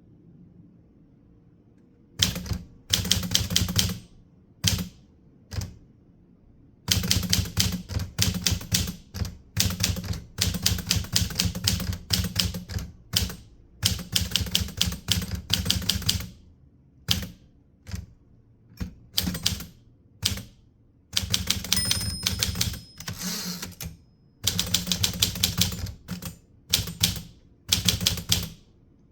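Typewriter being typed on: quick runs of key strikes with short pauses between them, starting about two seconds in.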